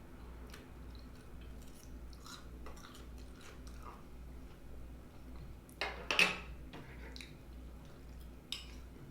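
Close-up eating sounds: chewing and mouth smacks, with small clicks of cutlery against a plate. A louder clatter comes about six seconds in.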